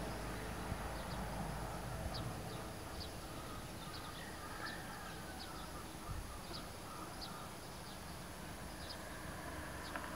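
A bird chirping repeatedly, short high calls about one a second, over a faint, steady rumble of distant road traffic.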